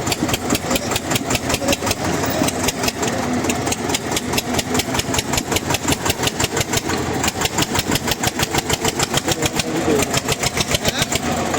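Diesel tractor engine running hard with a rapid, even exhaust beat of about five pulses a second, as tractors strain against each other in a tug-of-war pull.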